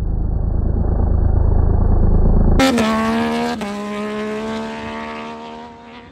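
Triumph 765cc three-cylinder Moto2 engine running. A muffled low rumble grows louder, then about two and a half seconds in there is a sudden change to a clearer sound. The revs fall and settle to a steady note that fades away near the end.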